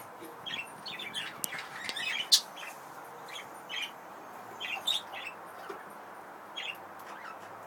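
Budgerigars chirping in short, scattered chirps over a steady background hiss, with a few sharp clicks among them; the loudest is a click about two and a half seconds in.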